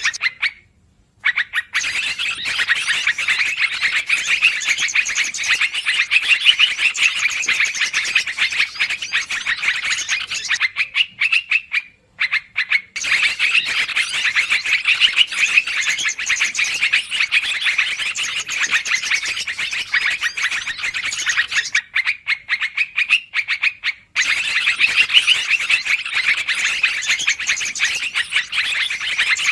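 Yellow-vented bulbul (trucukan) bird-lure recording: dense, busy chattering calls, breaking off briefly three times.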